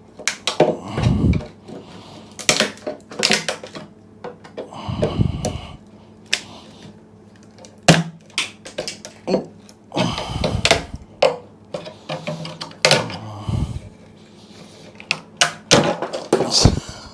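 A scraper working thick old tank sealer off the metal of a motorcycle fuel tank: irregular scrapes with many sharp knocks and clatters of metal.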